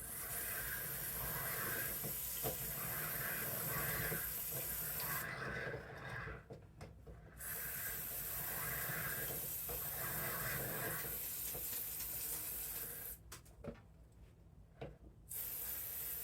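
Aerosol can of Fluid Film lubricant spraying in long hissing bursts, about five seconds, then about six, then again near the end, with short pauses between.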